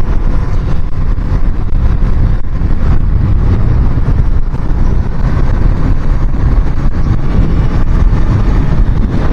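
Heavy wind buffeting on the microphone of a moving Suzuki Inazuma GW250 motorcycle, a loud, steady low rumble caused by a strong side wind. The bike's engine runs underneath at a steady cruise.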